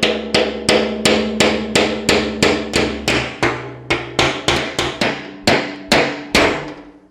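Hammer driving a chisel against the welded end cap of an aluminum fuel tank, steady blows about three a second, the metal tank ringing under each strike; the hammering stops shortly before the end.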